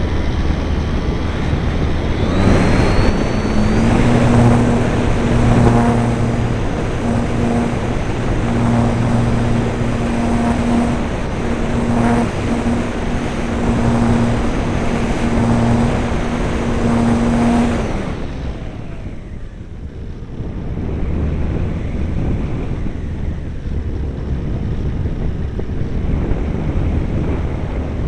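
RC airplane's motor and propeller running with a steady hum that drops in and out, over wind rushing past the microphone. The motor cuts off about two-thirds of the way through, leaving only the wind noise.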